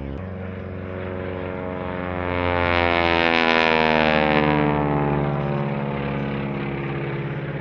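Piston-engine propeller airplane flying past: the engine and propeller drone grows louder, peaks about halfway through, then drops in pitch and fades as the plane goes by.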